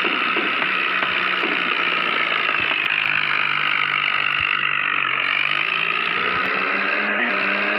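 A small motor running steadily under load, its pitch climbing during the last couple of seconds.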